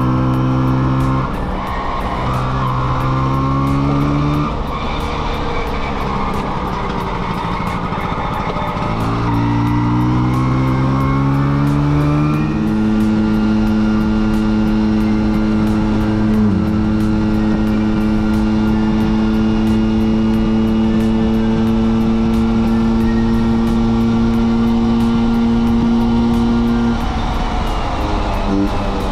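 Vespa V50 two-stroke scooter engine under way. Its pitch climbs twice as it pulls through the gears, then holds steady at cruising speed for about fourteen seconds before falling off near the end.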